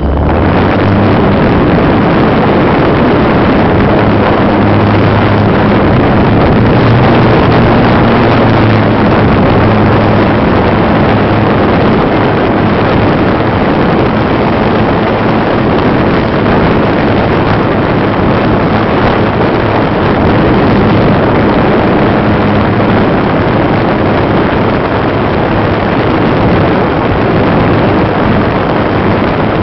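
Electric motor and propeller of a GWS Slow Stick RC plane running steadily in flight, heard from the onboard camera as a loud, even drone with a low hum, mixed with wind rushing over the microphone.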